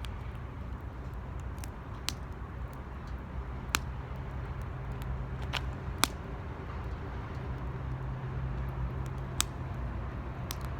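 Wood fire burning in an 18-litre metal can, crackling with a few sharp, irregular pops over a steady low rumble.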